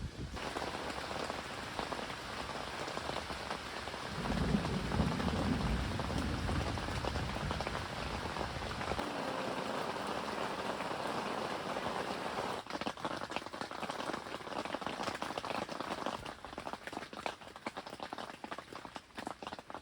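Rain falling in a steady dense patter, thinning to more separate drops from about two-thirds of the way through.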